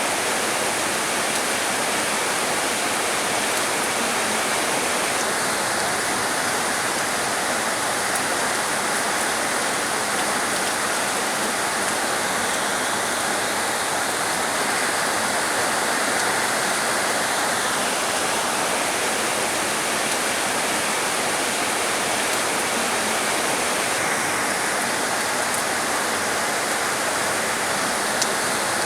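Heavy rain falling steadily as a dense, even hiss, with one sharp tick near the end.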